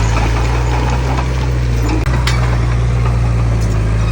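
Heavy diesel earthmoving machinery running steadily with a deep, even drone and a few light clicks and clanks, with a brief drop-out about halfway through.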